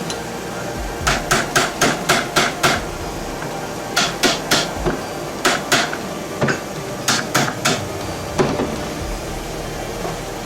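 Hammer blows on metal, ringing sharply: a quick run of about seven strikes, then several shorter groups of one to three blows with pauses between.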